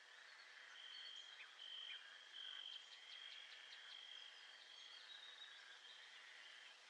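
Faint nature-soundscape ambience: a high, steady chirring tone holds through most of the stretch, with a brief run of quick chirps near the middle, over a soft outdoor hiss.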